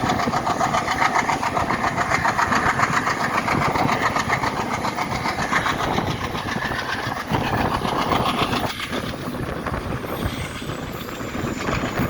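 Express train running: steady diesel locomotive engine noise mixed with wheel-on-rail rumble, easing slightly about nine seconds in.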